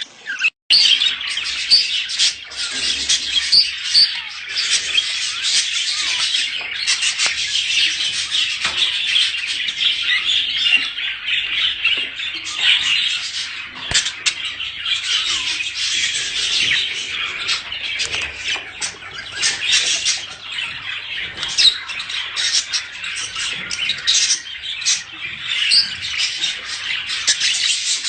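Budgerigar flock chattering: many overlapping warbles, chirps and squawks without pause, after a brief break about half a second in. It is the kind of breeding chatter played to caged budgies to encourage them to mate.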